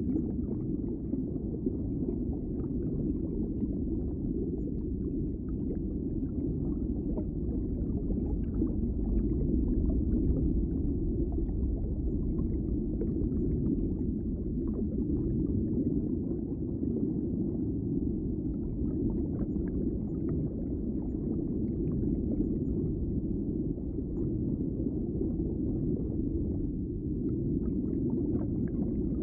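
Underwater ambience: a steady low rumble of water, with faint scattered ticks and bubbling over it.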